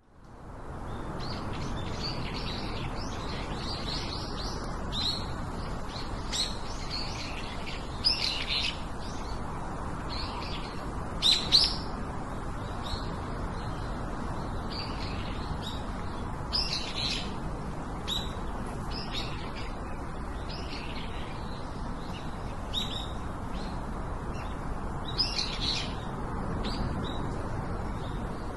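Birds chirping and calling, short bright chirps coming every second or so, some louder and closer than others, over a steady low background noise. The sound fades in over the first second.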